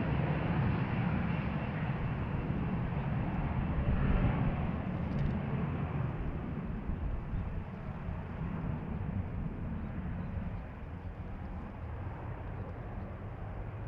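Jet engine noise from a Boeing 737-500's CFM56 turbofans, a steady low rush that slowly fades.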